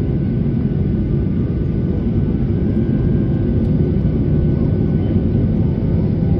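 Steady low rumble of a jet airliner, engines and airflow, holding an even level with no change.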